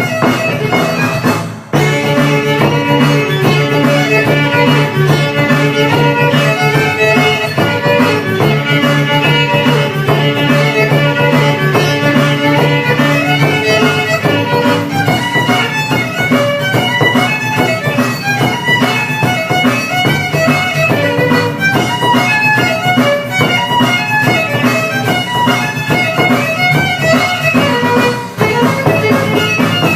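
Violin music, a fiddle tune with many short notes, with two brief breaks: one just under two seconds in and one near the end.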